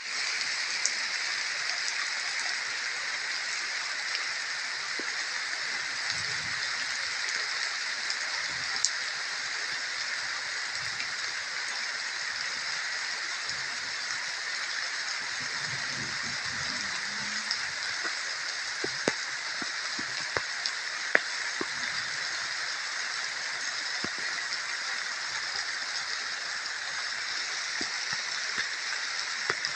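Steady rain falling, an even hiss with scattered sharper drop impacts now and then.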